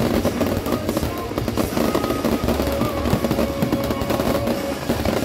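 Aerial fireworks bursting and crackling continuously, with music playing underneath.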